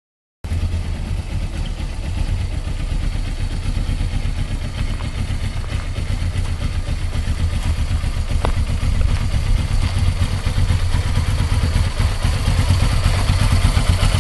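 Suzuki GS500E's air-cooled parallel-twin engine running steadily at idle, which the owner describes as being in excellent condition for its age.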